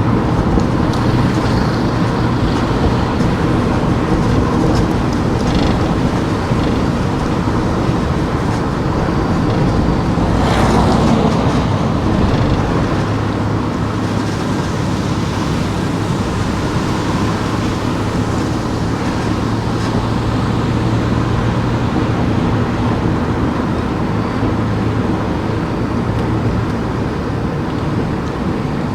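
A car driving on town streets: steady engine hum and tyre-on-road noise, with a brief louder whoosh about ten seconds in, like another vehicle passing.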